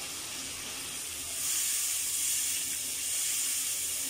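Masala paste of onion, garlic and ground spices sizzling in hot oil in a non-stick wok as it is fried down (koshano) on lowered heat: a steady hiss that grows louder about a second and a half in.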